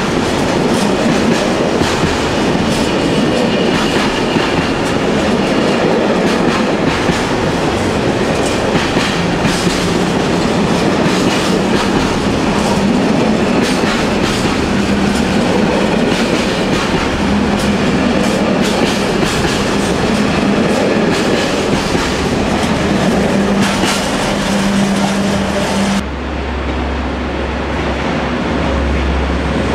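Container freight train passing close at speed: a steady rumble with the wheels clattering over rail joints. About 26 seconds in the sound cuts abruptly to a quieter, lower hum.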